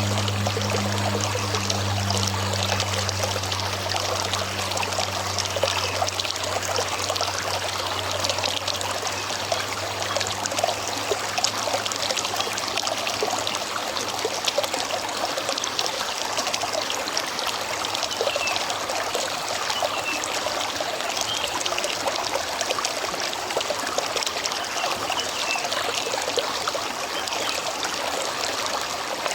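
River water running steadily over rocks, a dense, even rush and trickle. A low hum underneath fades out over the first several seconds.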